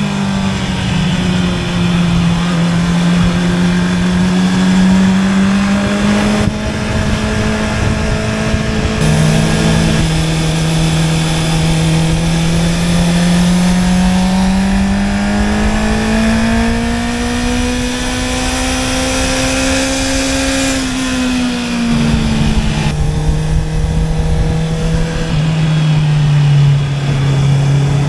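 Honda CB650R's inline-four engine through an Akrapovič exhaust, under way. The engine note climbs slowly with speed and then falls back, and drops suddenly in pitch a few times as it shifts up a gear.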